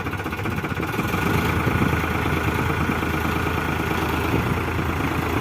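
Powertrac Euro 50 tractor's diesel engine running steadily, getting slightly louder about a second in.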